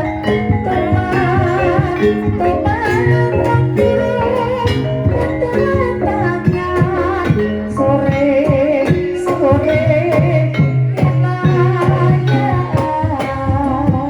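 Javanese gendhing music: a sinden sings in a high voice with vibrato over pitched instruments and steady drum strokes.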